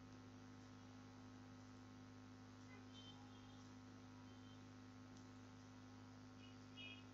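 Near silence: a steady electrical hum, with a few faint, brief high blips.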